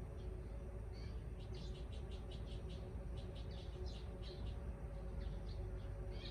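Small birds chirping in a quick run of short, high calls, over a steady low background rumble.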